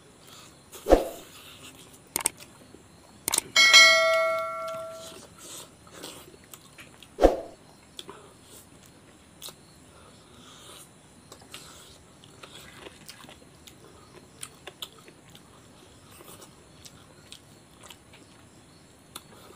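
Quiet chewing and wet mouth sounds of eating curry by hand. Two short sharp sounds come about a second in and again around seven seconds, and a ringing clang of several tones, the loudest sound, starts about three and a half seconds in and dies away over about a second and a half.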